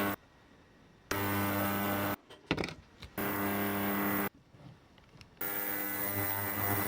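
A small electric motor buzzing with a steady hum, switched on and off in three short runs, with a few clicks in one of the pauses.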